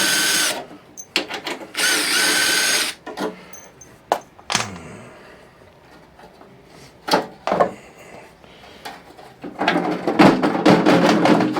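Cordless power drill/driver running in two short bursts of about a second each, with a steady whine, while taking a furnace blower motor off. Scattered knocks and clicks of metal parts follow, and near the end there is a longer stretch of rattling and scraping.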